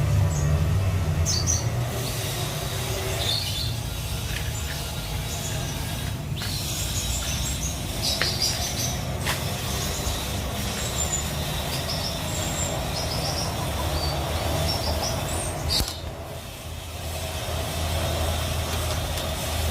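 A small songbird chirping in short, high, scattered notes over a steady low rumble, with a few sharp clicks.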